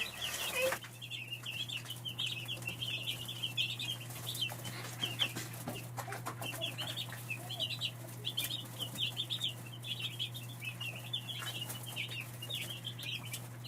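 Cornish meat-bird chicks peeping constantly, a dense stream of short high chirps, over a steady low hum.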